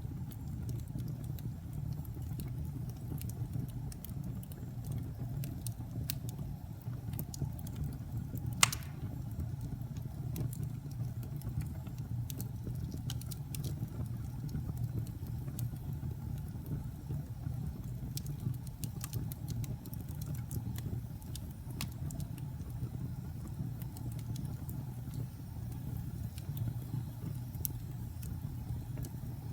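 Wood fire burning: irregular crackles and small pops of burning wood over a steady low rumble, with one sharp, loud pop about eight or nine seconds in.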